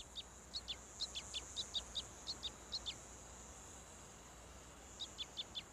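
A small bird calling in quick series of short, falling chirps, several a second; they stop about three seconds in and start again near the end. Under it runs a steady high-pitched insect trill.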